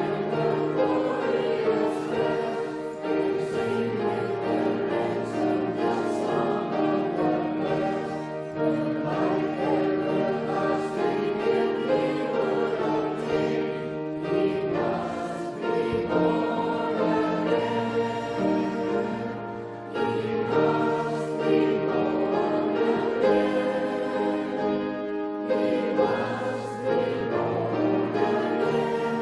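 Choir singing with instrumental accompaniment, sustained notes moving from chord to chord.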